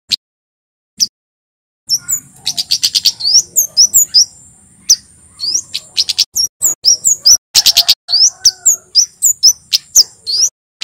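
Male kemade, a Javan flowerpecker, calling in a rapid run of sharp, high chirps and quick pitch sweeps, starting about two seconds in after a near-silent opening. A thin steady high whine sits under the chirps in two stretches.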